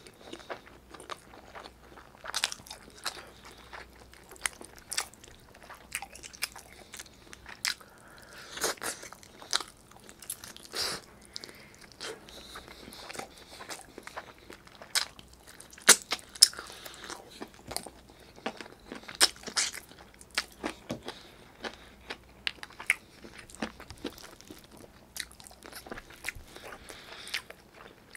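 Close-miked chewing of chicken adobo and rice eaten by hand, with irregular sharp wet mouth clicks, a few much louder than the rest.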